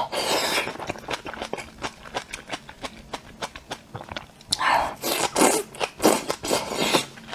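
Close-miked chewing and crunching of sauce-coated skewered bok choy, a steady run of small crisp crackles. In the last few seconds come several louder wet bites and slurps as a piece of green pepper is sucked into the mouth.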